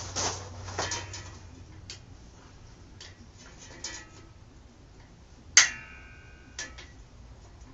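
Metal tool working at a stiff exhaust spring on a dirt bike's pipe: a few light clicks and scrapes, then a sharp ringing metallic clank about five and a half seconds in and a smaller knock a second later.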